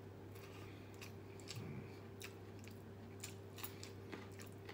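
Close-miked chewing of a mouthful of rice and mung bean stew eaten by hand: faint, wet mouth clicks at irregular intervals over a steady low hum.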